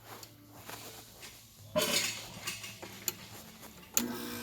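Clicks and clattering from a Hampton Bay 5000 BTU window air conditioner as its controls and plastic case are handled. Near the end there is a click and the unit switches back on with a steady hum.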